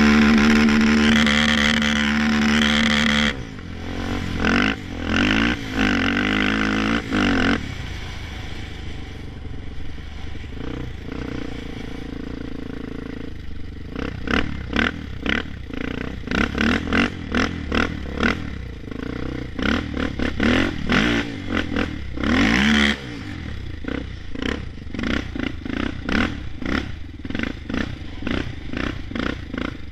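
Honda 400EX quad's single-cylinder four-stroke engine revving hard near the rev limiter: held high for about three seconds at the start, then surging up and down, easing to a lower steady run, and through the second half choppy on-off bursts with one more brief high hold.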